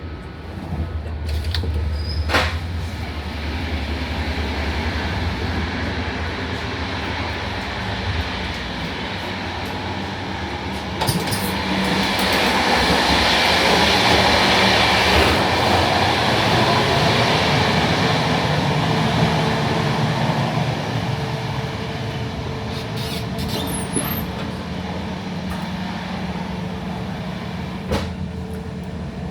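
ÖBB Cityjet regional train running along the line, a steady rumble with a low hum. About eleven seconds in, the noise swells louder for several seconds and then eases back, with a few sharp clicks from the track.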